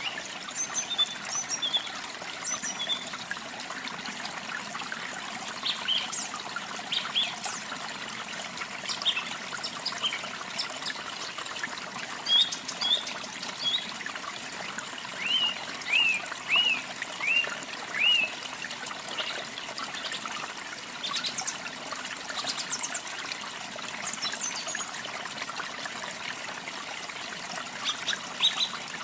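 Running water trickling steadily, with small birds chirping over it: scattered short high calls throughout, and a run of five similar notes about halfway through.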